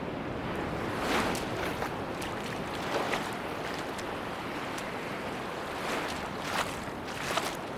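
Sea waves washing on a beach: a steady rush of surf with short splashes breaking through a few times.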